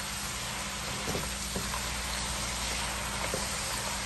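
Chopped onions, green chillies, ginger-garlic paste and cashews sizzling steadily as they sauté in hot oil and ghee in a frying pan, with a few faint ticks.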